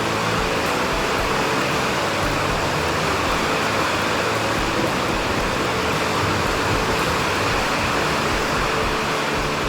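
Steady rushing noise of heavy rain, even throughout, with a faint low pulsing underneath.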